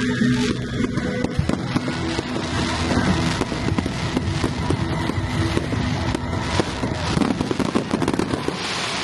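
A fireworks display going off in a dense, unbroken run of bangs and crackles, with a rush of hiss building just before the end.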